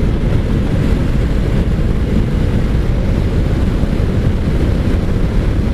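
Wind buffeting the microphone of a riding motorcycle, a loud, steady low rumble with engine and road noise underneath.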